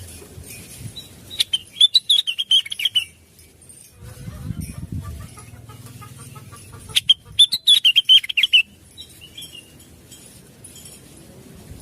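Blue-winged leafbird (cucak wilis) singing: two quick, high warbling phrases laced with sharp clicking notes, about five seconds apart.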